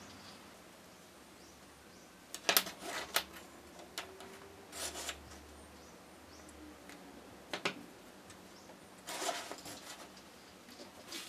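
Small workbench handling sounds: scattered sharp clicks and taps of small tools and small plastic parts, with a quick run of clicks about two and a half seconds in and brief scrapes around five and nine seconds.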